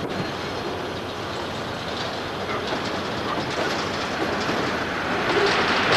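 Freight train wagons rolling past on the rails: a steady rumble with clickety-clack from the wheels, growing louder near the end.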